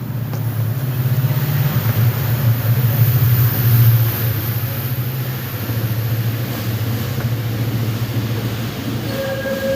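Inside a Korean subway car: the train running between stations with a steady low rumble, swelling about four seconds in and easing a little after. A thin steady whine comes in near the end.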